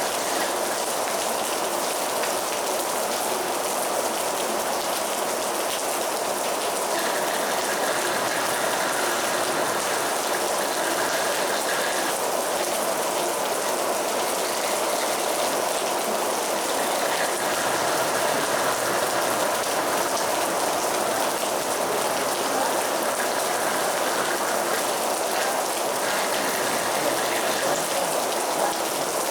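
Heavy rain falling steadily, a dense, even hiss of rain on a surface.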